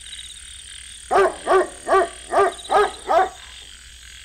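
Night-time ambience sound effect: a steady high insect trill with six short, evenly spaced animal calls, each rising and falling in pitch, starting about a second in.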